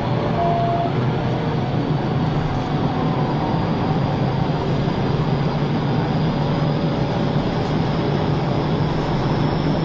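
Steady engine and road noise of a car driving, heard from inside its cabin.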